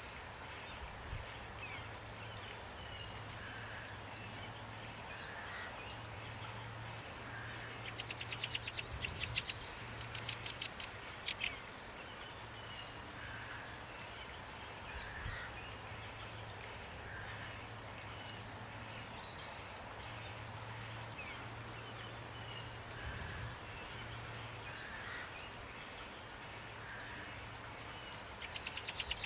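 Songbirds chirping and whistling in short high phrases over a steady hiss of rain, with bursts of rapid trilling about a third of the way in and again near the end.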